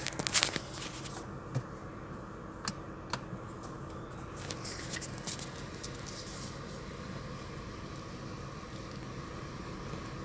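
Steady low background hum, like a fan or air conditioning, with a few sharp clicks and knocks in the first three seconds.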